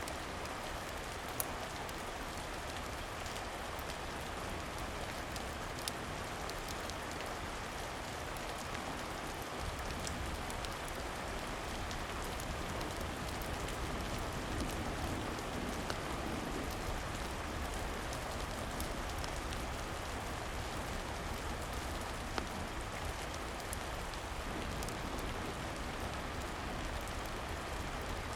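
Steady rain falling, with a few isolated sharp clicks standing out above it.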